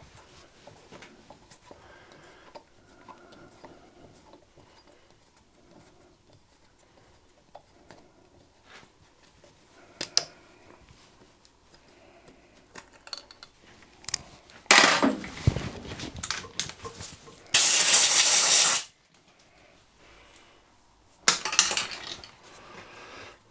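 Light metallic clinks and taps of hand tools on a workbench, then three loud bursts of hiss, the middle one steady for just over a second.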